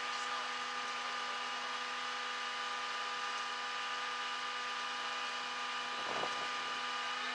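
Steady mechanical hum at a constant pitch, like a running engine or motor.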